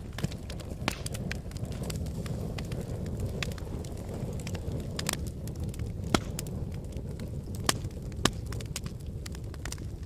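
Wood fire burning in a fireplace: a steady low rumble with irregular sharp crackles and pops, a few louder pops about six and eight seconds in.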